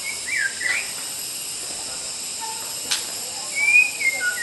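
White-rumped shama singing: short fluty whistled phrases that glide up and down, one near the start and more toward the end, over a steady high hiss. One sharp click near the middle.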